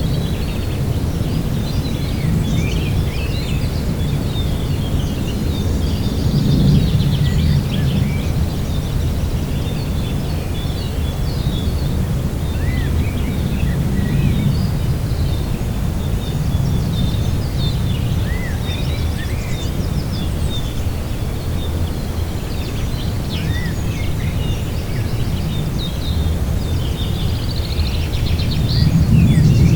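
Outdoor lakeside ambience: a low rumble of wind that swells in gusts a few times, with small birds chirping and twittering throughout.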